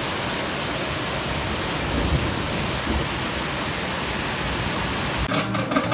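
Heavy rain falling in a steady hiss. Music starts near the end.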